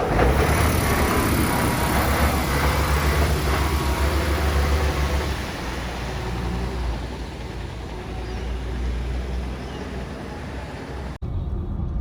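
Garbage truck engine running with a heavy low rumble, loudest for the first half and then easing off. It cuts off abruptly near the end.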